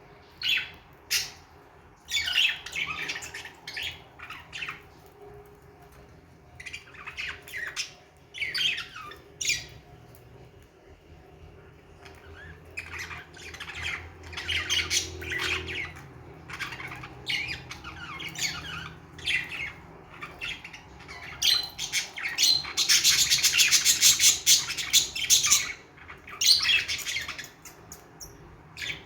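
Budgerigars chirping and squawking in short, repeated bursts, with a longer stretch of fast, buzzy chatter about three quarters of the way through.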